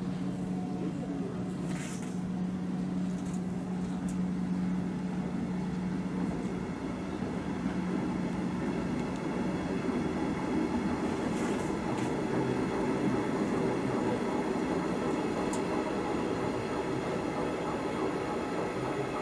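Double-deck regional train pulling out of the station and running away on the rails. A steady hum stops about a third of the way in, while rolling wheel-on-rail rumble continues, with a few faint clicks.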